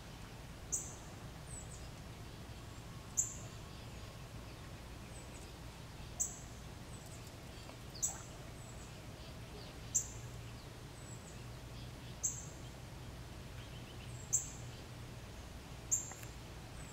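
A short, high chirp, like a small bird's call note, repeats about eight times at intervals of two to three seconds over a steady low hum.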